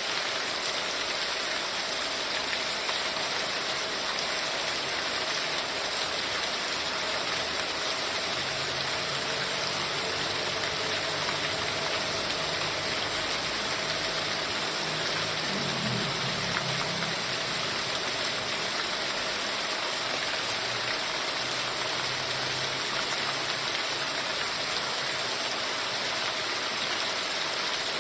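Heavy rain falling steadily as an even hiss, with a faint low hum coming and going in the middle.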